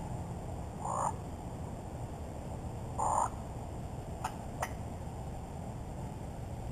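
Wild turkey gobbler gobbling twice, about a second in and again about three seconds in. Two sharp clicks follow about four and a half seconds in.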